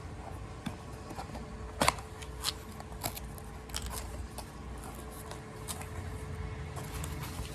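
Product packaging being handled: scattered clicks and short rustles, with one sharp, louder click about two seconds in, over a faint steady hum.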